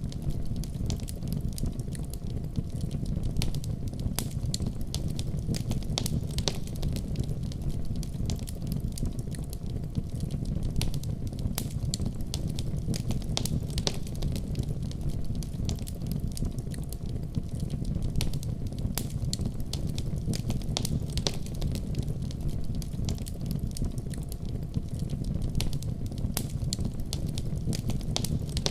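Wood fire crackling in a fireplace, with frequent sharp, irregular pops over a steady low rumble.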